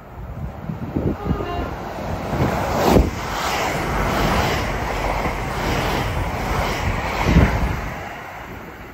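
A West Midlands Railway Class 730 Aventra electric multiple unit, two units coupled, passing through the station at speed. The rush of wheels on rail and of air builds quickly and holds steady with a regular beat from the passing wheelsets, with a sharp knock about three seconds in and another near seven seconds. It fades as the train draws away.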